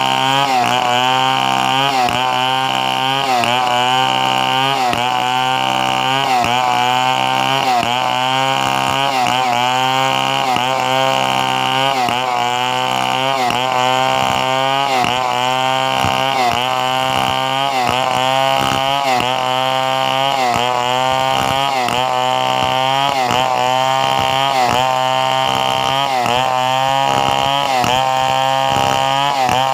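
Chainsaw running under load while cutting coconut wood. The engine note sags and recovers about once a second as the chain bites into the wood.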